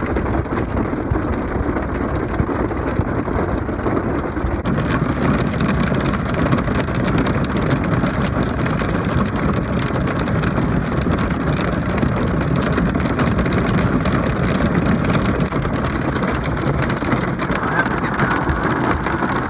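Heavy rain hitting the car's roof and windows, heard from inside the cabin as a dense, steady wash of countless small impacts that stops suddenly at the end.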